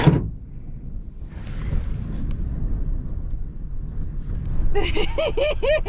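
Strong gusty wind buffeting the microphone, a steady low rumble with a brief hissy swell. Near the end a voice gives a quick run of about five rising-and-falling syllables.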